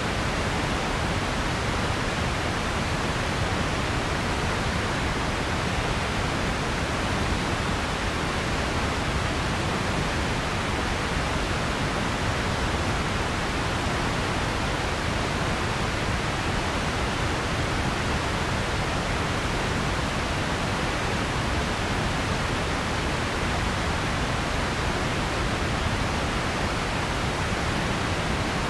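Steady synthetic noise, a pink-noise-like hiss spread evenly across the range, unchanging throughout.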